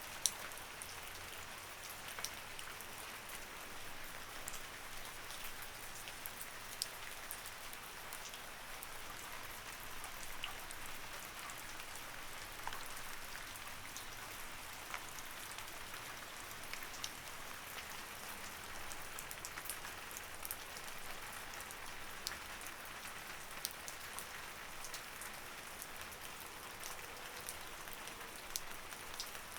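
Light rain falling steadily, a soft even hiss with many individual drops ticking on a surface.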